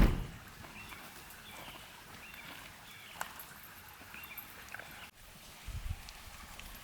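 A sharp thump right at the start, then quiet outdoor ambience with faint short chirps. A low rumble comes in near the end.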